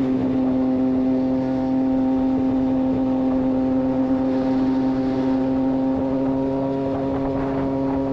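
2024 Triumph Street Triple 765 RS's inline three-cylinder engine breathing through a Racefit Growler full exhaust system, running at steady revs under a constant throttle while riding.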